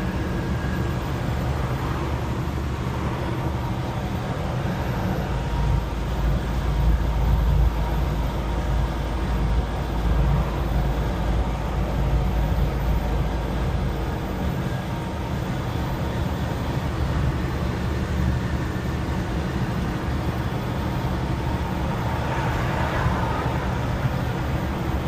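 Steady engine drone and road noise inside a moving truck's cab, with the low rumble growing louder for a few seconds about five seconds in.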